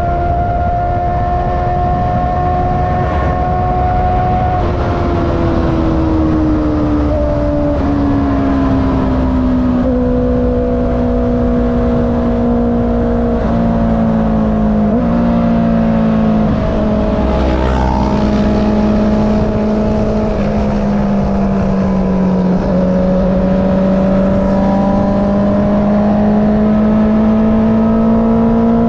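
Honda CB650R inline-four engine through an Akrapovic exhaust, heard from the rider's seat while riding. The engine note eases down for several seconds, jumps in pitch a few times about halfway through, then climbs steadily again near the end. Low wind rumble runs underneath.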